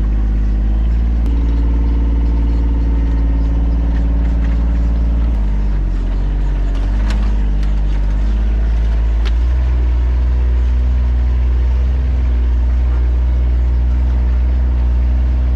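John Deere Gator XUV 855D utility vehicle's three-cylinder diesel engine running while it is driven. The engine note shifts about five seconds in and settles into a steady lower hum at about nine seconds.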